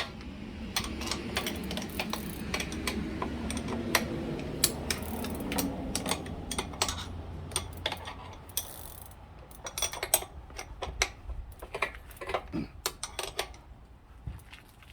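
Irregular metallic clicks and taps of hand tools working on a bicycle pedal whose threads seem to be damaged, over a low hum.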